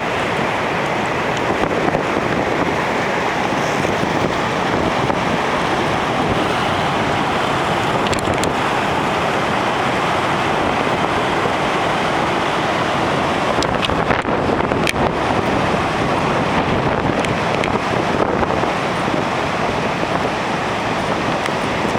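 Strong hurricane wind buffeting the microphone over heavy storm surf breaking on the beach: a loud, steady, unbroken rush of noise.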